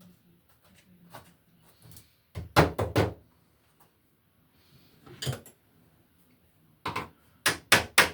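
Tool knocking against a rusted electrical box in the wall as it is worked loose. A quick group of blows comes about two and a half seconds in, then single knocks, and near the end a run of quick blows about four a second.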